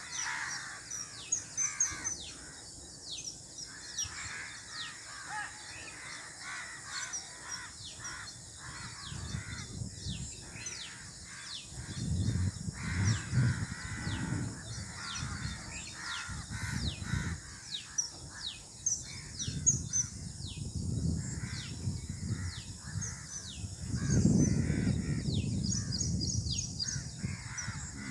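Birds calling: many short, quick chirps that sweep downward, repeated all through, over a low rumble that swells twice, about halfway through and near the end.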